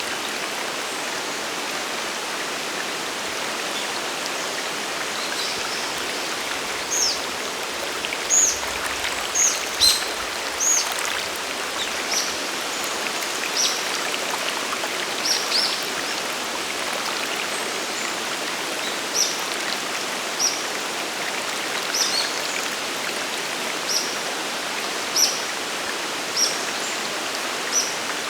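Steady rush of a mountain waterfall. From about a quarter of the way in, a bird calls over it with short, high, falling chirps, about one a second.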